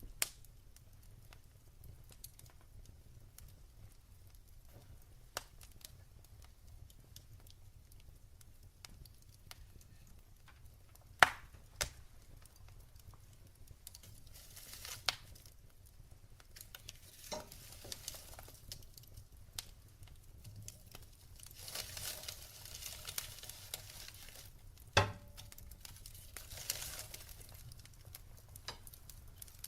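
Fire crackling in a fireplace: sharp pops scattered every few seconds, the loudest about eleven seconds in and again near twenty-five seconds, over a soft hiss of burning that swells in stretches during the second half.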